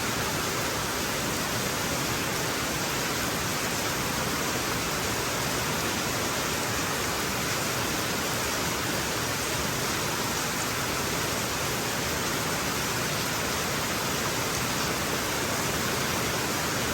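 Heavy rain falling, a steady even hiss with no break or change.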